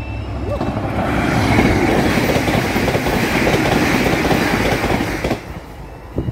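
Northern Ireland Railways diesel multiple unit passing close by at speed, a loud rush of engine and wheel noise with a clickety-clack over the rail joints. It cuts off sharply as the last coach clears, about five seconds in. Before the train noise swells, the level crossing's two-tone alarm sounds faintly at the start.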